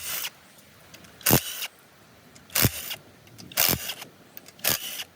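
Five sharp knocks, roughly a second apart, with quiet between them.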